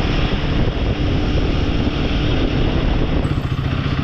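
Royal Enfield motorcycle engine running steadily while riding, under a continuous rush of wind and road noise.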